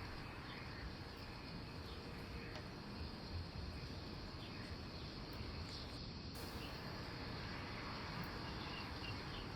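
Quiet countryside ambience: a steady background hiss with faint, scattered bird and insect chirps.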